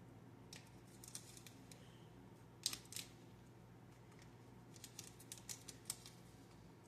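Faint, scattered small clicks and ticks of objects being handled, with a sharper pair about two and a half seconds in and a quick run of clicks near the end.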